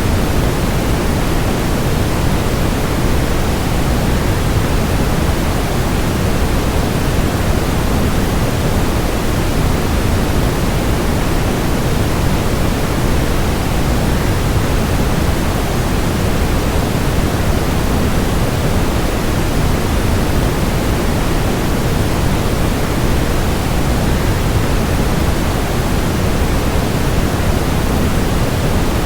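Waterfall rushing in an even, unbroken wash of noise, heaviest in the low end, with no change in level.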